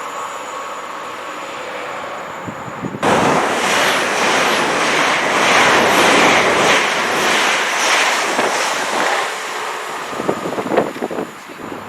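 Train passing close at speed: a steady running sound, then about three seconds in a sudden loud rush of air and wheel noise that pulses evenly as the carriages go by. Near the end it thins to a quick run of clicks and clatters from the wheels on the rails, with wind buffeting the microphone.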